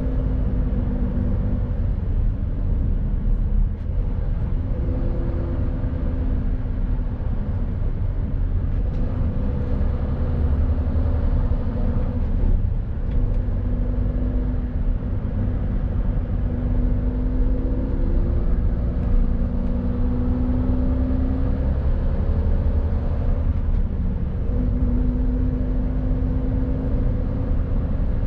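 Mercedes Actros lorry's diesel engine running under way, a heavy steady rumble whose pitch drifts up and down a little as the engine speed changes.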